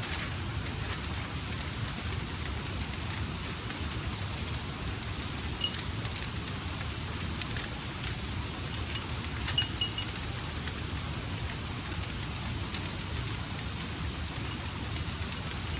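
Steady heavy rain, with scattered sharper drop ticks.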